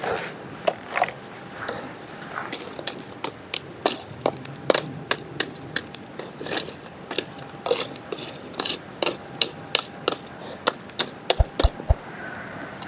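A run of short, sharp clicks and knocks, several a second and unevenly spaced, over a faint steady hiss.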